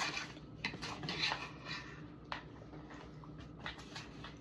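Faint scattered clicks and clatter of cutlery and dishes handled during a meal, with a few sharp taps.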